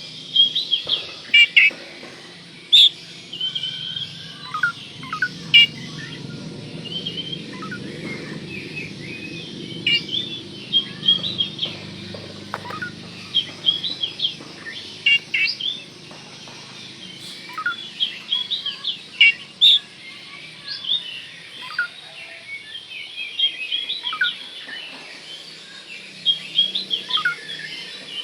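Oriental magpie-robin (kacer) singing a long, busy run of short, quick chirps and whistles, over a low background hum.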